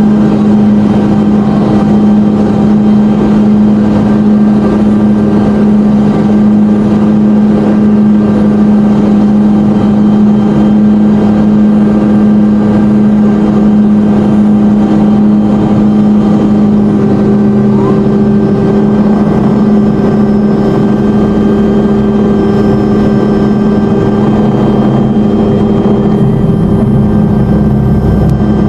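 Helicopter cabin noise heard from the cockpit in flight: a loud, steady drone of engine, transmission and rotor with a strong constant hum. A second, higher steady tone joins about two-thirds of the way through.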